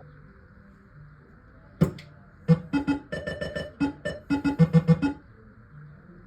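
1979 Gottlieb Pinball Pool pinball machine sounding its game tones: one sharp mechanical clack, then a quick run of pitched notes, about five a second, lasting a couple of seconds over a low steady hum.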